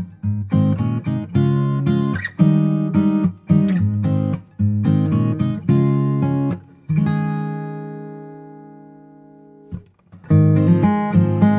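Background music: acoustic guitar strumming and picking chords. About two thirds of the way in, one chord is left to ring out and fade for a few seconds before the playing starts again.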